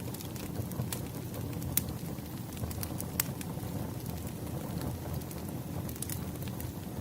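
Wood bonfire dying down, burning with a low steady rush and scattered sharp crackles and pops at irregular moments.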